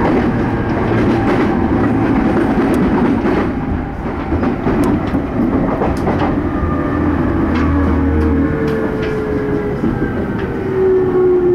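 E231-series electric commuter train running, heard from inside: steady wheel-on-rail noise with sharp clicks from the rail joints. Over the last few seconds a whine slowly falls in pitch.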